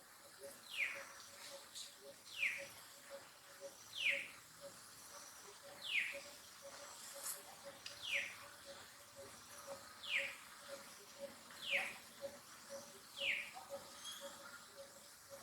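A bird repeating one short, clear whistled note that slides downward, about once every one and a half to two seconds. Under it runs a faint, fast, evenly pulsed low note.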